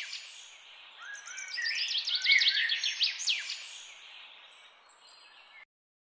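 Songbird ambience: a bird sings one fast phrase of rapid high chirps about a second in, over a faint outdoor hiss. The song fades and cuts off abruptly near the end.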